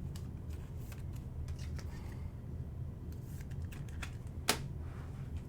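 Trading cards being handled and flipped through: light scattered clicks and rustles, with one sharper tap about four and a half seconds in, over a low steady hum.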